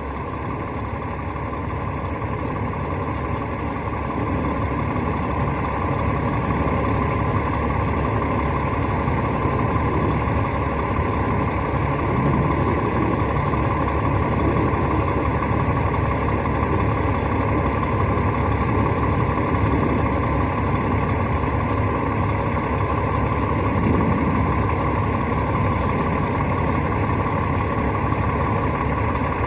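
Rooftop HVAC unit running: a steady mechanical hum and rush, growing louder over the first few seconds and then holding steady.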